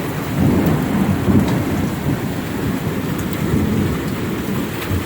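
Heavy thunderstorm rain pouring down, with quarter-size hailstones landing in it as a few scattered sharp taps.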